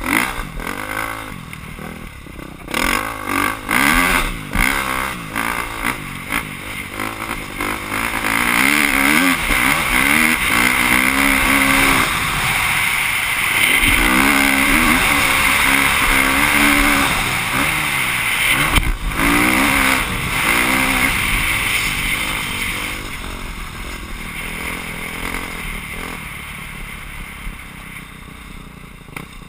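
Motocross motorcycle engine heard on board, revving up and down again and again as the rider accelerates and shifts, with a few knocks from the bike over the track. It grows to a steady loud rush through the middle and fades toward the end.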